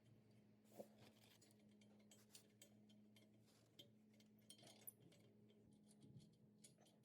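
Near silence with faint, irregular metallic clicks and clinks of hand tools and bolts while a subframe is bolted onto a tractor, over a faint steady hum.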